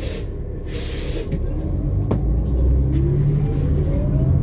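New Flyer XN60 bus with a Cummins-Westport ISL-G natural-gas engine and Allison B500R transmission, running under a steady rumble. A short hiss of air comes about a second in and a click about two seconds in. The bus then accelerates, with a whine that rises steadily in pitch as it gets louder.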